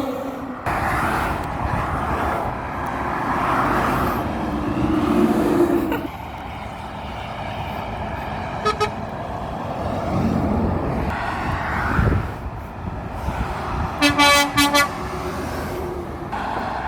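Truck horn giving short toots: a brief double toot about halfway and a burst of four quick blasts near the end, over the steady noise of passing road traffic.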